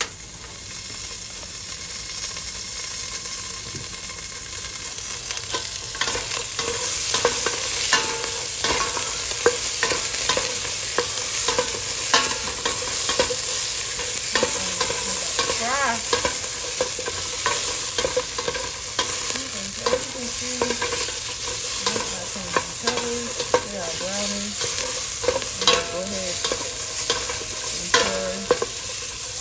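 Chopped onion frying in butter in a large pot, sizzling steadily while a utensil scrapes and knocks against the pot as it is stirred. The sizzle grows louder over the first several seconds.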